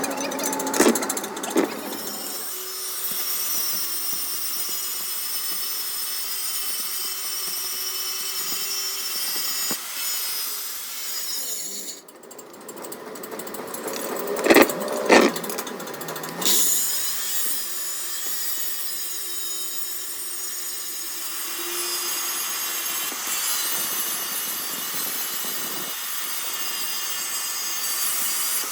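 Metal-cutting machine work on a truck flywheel: a steady high-pitched cutting hiss with whistling tones, such as a lathe tool facing the flywheel. It stops about twelve seconds in, a few sharp metal knocks come around fifteen seconds, and the cutting starts again soon after.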